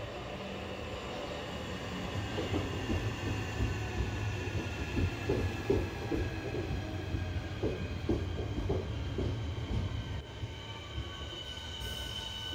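Southeastern Networker electric train running in alongside the platform: a deep rumble with its wheels knocking over the rail joints as the carriages pass, and a high steady wheel squeal that grows louder near the end.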